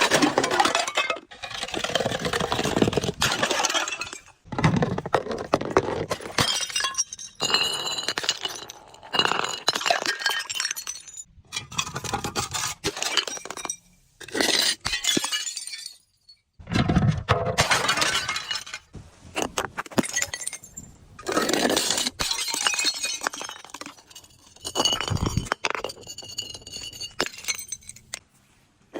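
Glass bottles being crushed and breaking over and over: about a dozen spells of crunching and cracking glass with clinking shards, each lasting a second or two, with short pauses between them.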